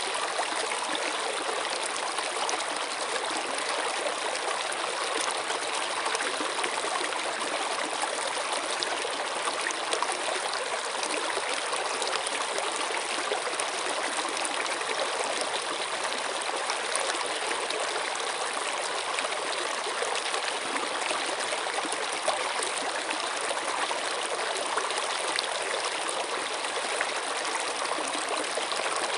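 Flowing water of a stream, a steady rushing haze with fine trickling splashes that never changes.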